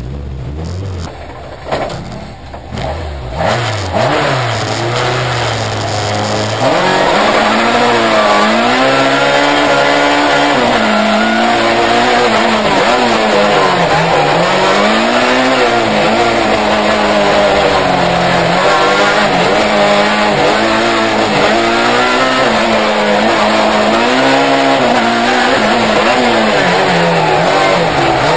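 Peugeot 306 Maxi rally car's four-cylinder engine heard from inside the cabin: lower and uneven with a few knocks at first, then from about six seconds in running hard and loud, its revs rising and falling every second or two as the car accelerates and lifts between the slalom gates.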